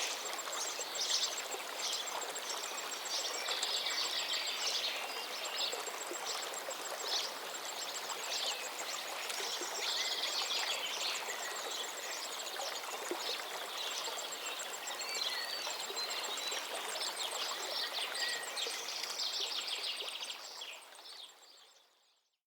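River water rushing steadily while several birds sing and chirp over it in quick, repeated notes. The sound fades out near the end.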